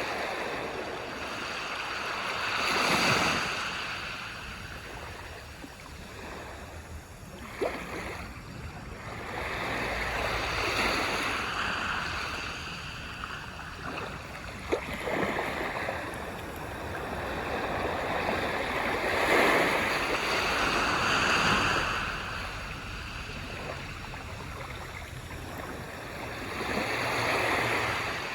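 Ocean waves washing onto a beach, surging and receding several times. Two short sharp clicks come through, one about a third of the way in and one about halfway.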